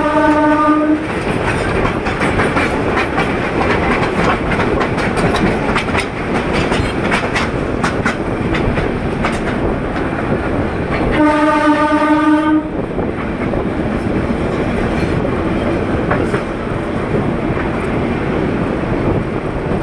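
A Bangladesh Railway train running on the track, with a steady rumble and wheel clicks over the rail joints. Its horn sounds one steady note that cuts off about a second in, then blows again for about a second and a half a little past the middle.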